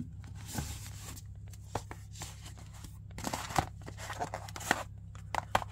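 Album packaging being handled: rustling and crinkling with scattered sharp clicks and taps as CD albums are picked up and shown, over a steady low hum.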